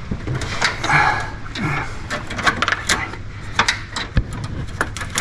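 Irregular metallic clicks and knocks over a low steady hum, with a short rattle about a second in, as the engine, transmission and K-member come free of the car.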